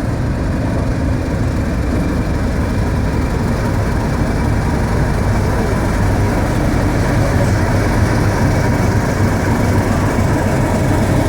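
British Rail Class 31 diesel-electric locomotive's English Electric V12 engine running steadily at low power as the locomotive draws slowly into a station: a deep, even engine drone with a thin steady high tone over it, growing slightly louder.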